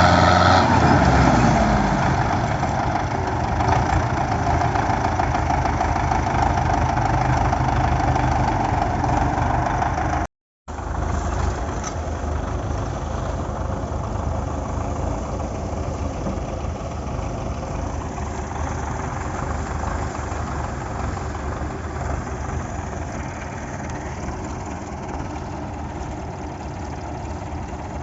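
Diesel tractor engine running steadily, with a short pitch drop right at the start. The sound cuts out suddenly for a moment about ten seconds in, then carries on a little quieter.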